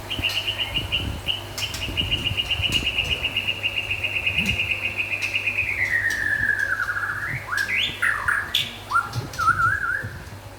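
White-rumped shama singing: a long rapid trill held level for several seconds that then slides lower, followed near the end by a few short, varied whistled phrases.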